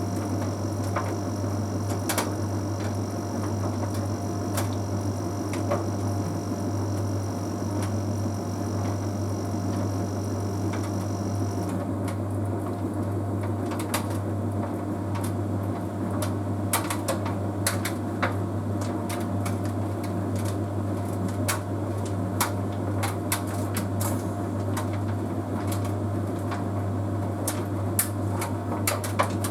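Bosch Series 6 heat pump tumble dryer running: a steady low hum with light, irregular clicks and ticks from the tumbling drum. A faint high whine in the background stops about twelve seconds in.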